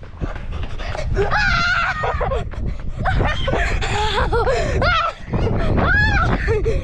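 Young children shrieking and shouting in high, gliding voices, over a steady low rumble on the microphone.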